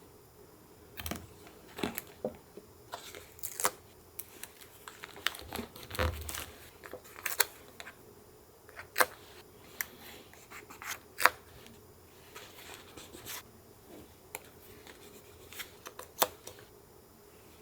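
Paper collage work at a desk: paper rustling and being cut and torn, with irregular sharp clicks and taps from tools and paper, and a soft thump about six seconds in.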